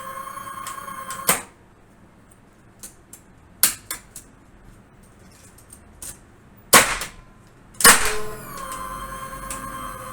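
Hyundai HGN25 air circuit breaker tripped by hand: a steady electronic tone cuts off with a sharp clack of the breaker mechanism about a second in. Faint clicks follow, then two loud mechanical clacks near the end, after which the steady tone comes back.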